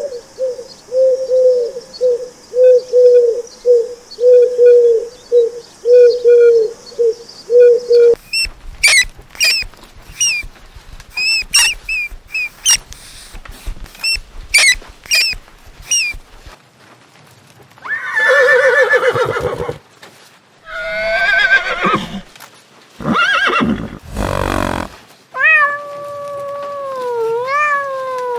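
A run of different animal calls: first a low call repeated about twice a second for some eight seconds, then sharp high chirps, then several longer harsh calls. Near the end kittens start meowing.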